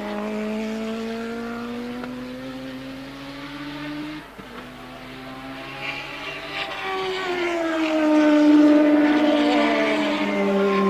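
Formula One race car engines at full throttle. The engine note climbs in pitch and breaks off briefly about four seconds in, as at a gear change. A second, louder car then rises to a peak near the end and drops slightly in pitch as it goes by.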